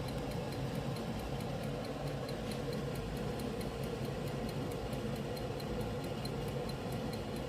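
Wind-up egg timer ticking steadily, about four to five ticks a second, over the steady rumbling of a glass WMF electric kettle heating 1 liter of water close to the boil.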